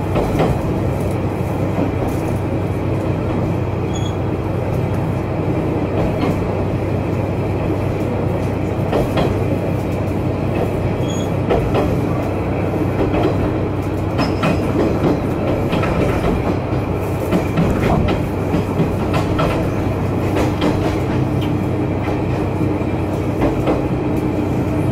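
Inside a Kanto Railway Joso Line diesel railcar on the move: a steady engine drone and wheel-on-rail noise, with irregular clicks of the wheels over rail joints. A steady hum comes in about twenty seconds in.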